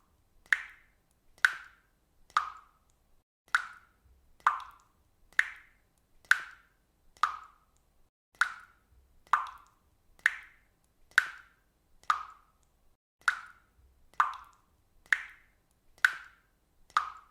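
Water drops falling one at a time in a steady, even rhythm of about one drip a second. Each drip is a short, sharp plop with a brief ringing tone.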